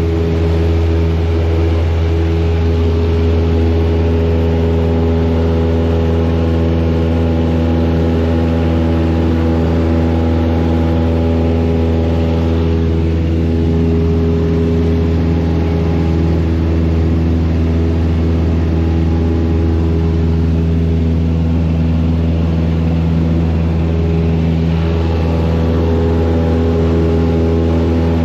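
Carburetted piston engine of a small single-engine light aircraft running steadily, heard from inside the cockpit as a loud, even low drone.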